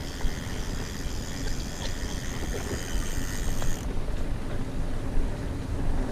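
Mountain bike rolling fast along a dirt trail: steady tyre rumble with a rattling drivetrain and a few light ticks from the bike.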